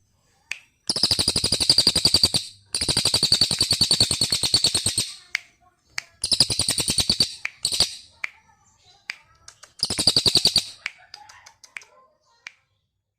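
A cage songbird singing fast, rattling trills in four bursts of one to two seconds each, with short sharp chirps between them.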